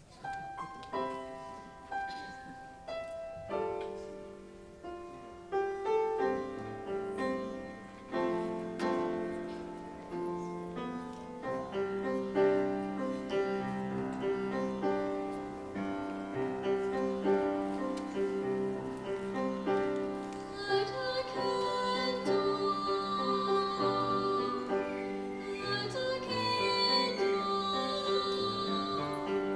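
Live choral concert music: a few struck piano chords open, then held notes of voices build over the accompaniment, and high wavering voices join about twenty seconds in.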